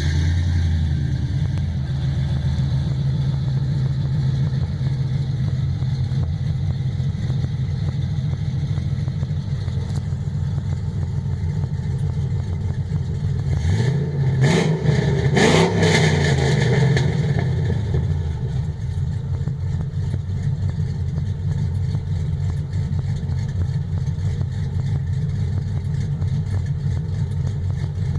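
2003 Chevy Silverado pickup's exhaust, through long-tube headers and single-chamber mufflers, idling just after start-up. Around the middle it is revved up and back down over about three seconds, then settles back to a steady idle.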